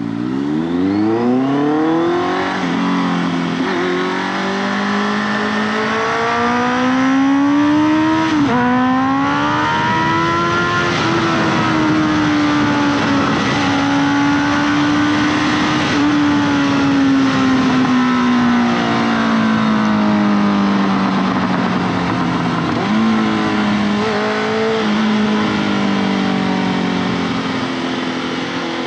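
Honda CBR650F's 649 cc inline-four through an SC-Project aftermarket exhaust, pulling away and accelerating up through several gears in the first ten seconds, each upshift breaking the rising note. It then cruises with the engine note slowly sagging, and picks up again near the end, with a steady rush of noise underneath.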